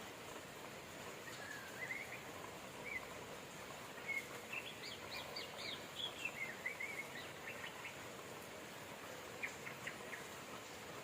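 Steady rain hiss with birds chirping over it: a few short rising calls early, a quick run of chirping notes in the middle, and a few more notes near the end.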